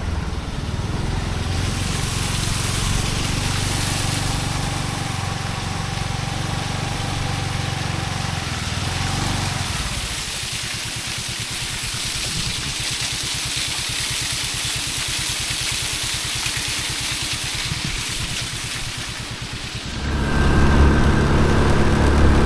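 Motorcycle engine running while being ridden, with hiss from the airflow over it. About halfway through the engine note turns into a slower, even pulsing, and near the end it gets louder.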